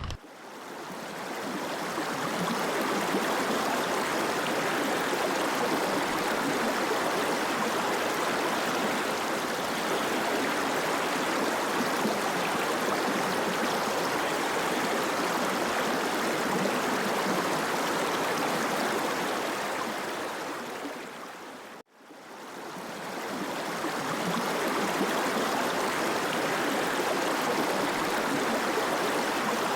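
Steady rushing of a mountain stream, fading in over the first couple of seconds. It cuts out about 22 seconds in and fades back in.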